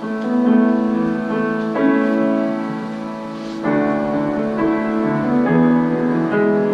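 Piano playing slow, held chords that change about every two seconds: the introduction to a worship song.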